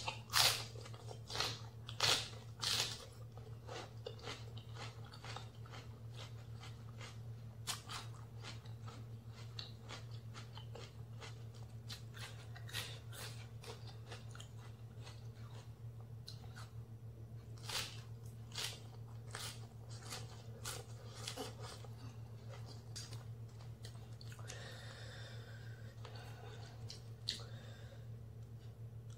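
A person biting and chewing raw leafy vegetables close to the microphone, crisp and crunchy. A few loud bites come in the first three seconds, followed by many quieter crunches as the chewing goes on.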